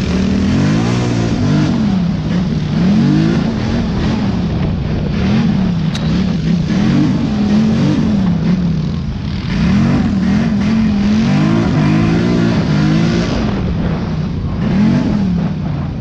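Off-road vehicle engine riding a trail, revving up and falling back again and again as the throttle is worked, with the pitch rising and dropping about once a second.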